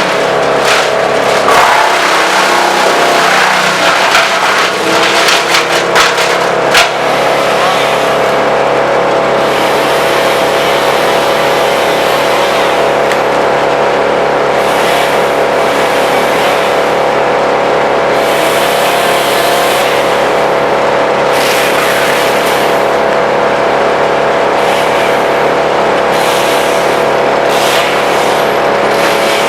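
Vermeer BC1000 wood chipper running at a steady drone, with irregular cracking and knocking over the first six or seven seconds as branches go through it, then steady running.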